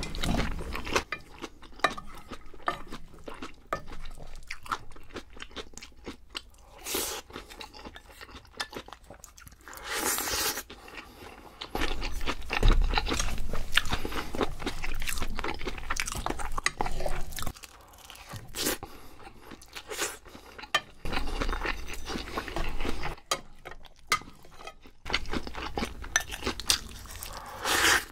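A person eating at close range: irregular chewing, crunching and biting sounds, with wet mouth noises between the bites.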